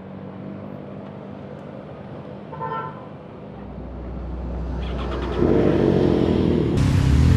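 Road traffic with vehicle engines running and a short car horn toot about three seconds in, then a deeper engine rumble building and getting much louder over the last few seconds.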